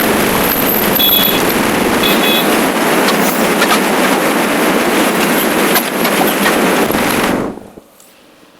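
Wind and road noise rushing over a motorcycle rider's camera while riding, steady and loud. It drops away abruptly near the end.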